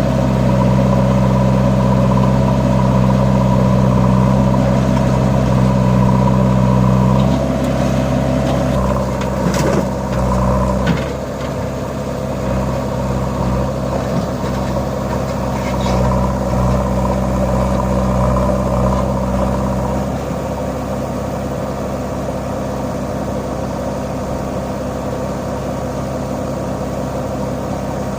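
John Deere 5050D tractor's diesel engine running steadily, hauling a loaded trolley. About seven seconds in its note drops and gets quieter, with a few knocks around ten seconds in, and it eases down once more near twenty seconds.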